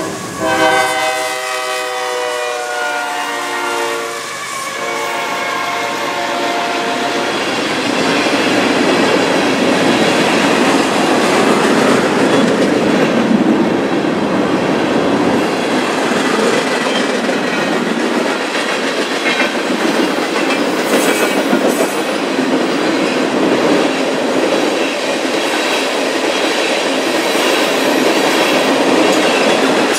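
BNSF freight train passing close by: the locomotive's air horn sounds a held chord that drops slightly in pitch as it goes by and fades out about four to seven seconds in. A long string of tank cars then rolls past with steady wheel noise and clickety-clack over the rail joints.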